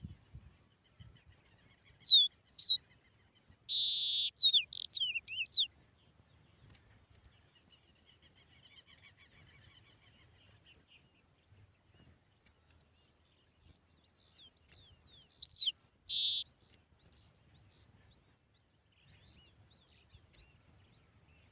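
Songbird singing short phrases of sharp downslurred whistles with a buzzy note, in three bursts: about 2 seconds in, about 4 seconds in and around 15 seconds in. A faint chatter comes in between.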